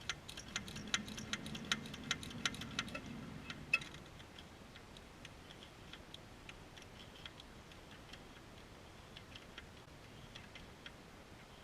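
Small hand pump clicking as it pumps gear oil through a hose into a front differential, about three clicks a second for the first four seconds, then fainter and sparser clicks.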